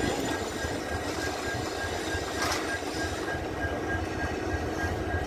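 Steady railway station background noise: a low, fluctuating rumble and a faint steady hum from trains nearby, with no distinct events.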